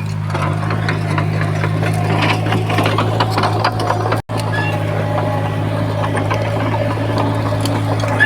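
Komatsu bulldozer's diesel engine running steadily, with frequent short clanks and rattles over it. The sound cuts out for an instant about four seconds in, then resumes much the same.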